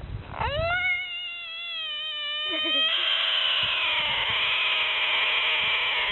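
An animal's long, drawn-out cry: it sweeps up in pitch about half a second in and holds steady for a couple of seconds, then turns rougher and louder for the rest. A few low bumps come at the start.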